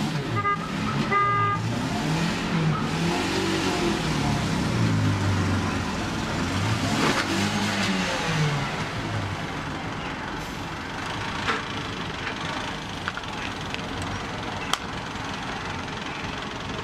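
Car engine running, its pitch rising and falling over the first half, with two short horn toots about a second in. After that it settles into steadier, quieter road noise, with a single sharp click near the end.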